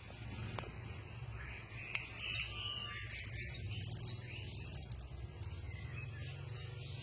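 Caged songbird singing a run of quick, high chirps and whistled phrases, loudest about halfway through, over a steady low hum.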